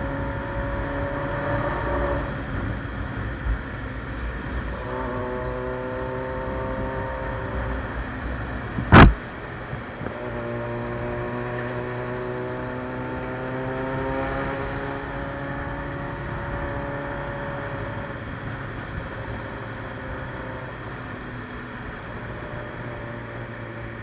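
Carbureted Suzuki Bandit 600's inline-four engine through a straight-pipe sport exhaust, pulling up through the gears: its pitch rises in several stretches and drops between them. One sharp, loud bang about nine seconds in.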